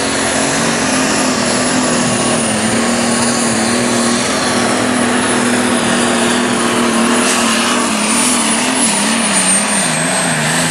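Light super stock pulling tractor at full throttle under load, dragging the sled down the track: a loud, steady engine note with a high whine above it, the pitch wavering near the end.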